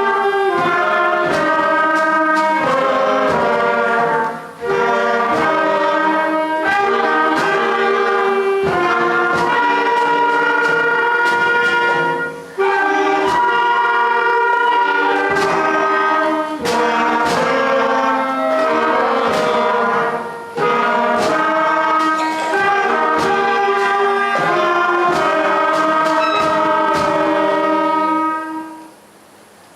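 Upper primary school concert band playing, brass prominent, in held chords with brief breaks between phrases. The piece ends on a final chord that dies away about a second before the end.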